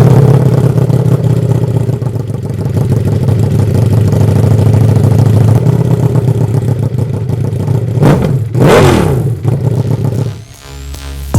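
Motorcycle engine running through a CS Racing aftermarket exhaust with a steady drone, then revved up and back down a couple of times about eight seconds in before the sound drops away.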